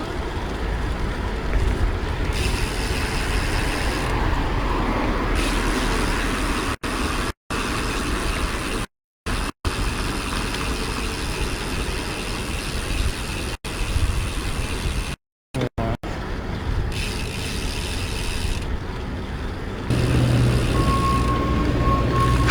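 Street traffic and a steady low wind rumble on the microphone while riding a bicycle through city streets. The audio drops out to silence for short moments several times, typical of a live stream losing mobile signal.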